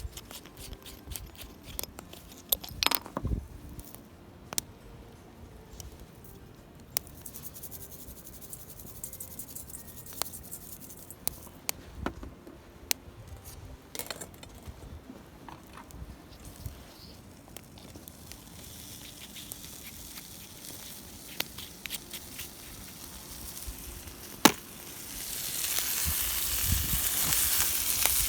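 Scattered small clicks and crackles of a wood campfire and things being handled, then a sharp knock and, near the end, food starting to sizzle in a hot pan with a rising steady hiss.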